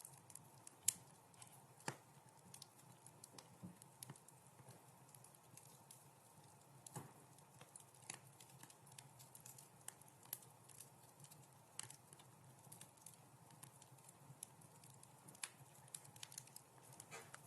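Wood fire crackling: irregular sharp pops and snaps, the loudest about a second in and another near two seconds, over a faint steady hiss.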